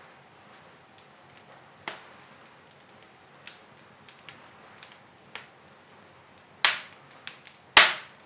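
Wood fire in a fireplace crackling, with sharp pops at irregular intervals and two loud cracks close together near the end.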